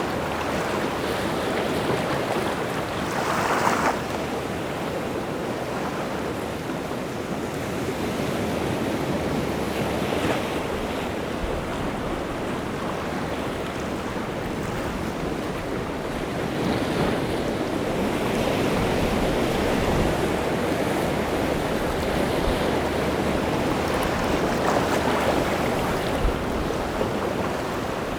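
Rough sea surf, a continuous wash of breaking waves that swells louder every six or seven seconds as each wave breaks, stirred up by strong wind.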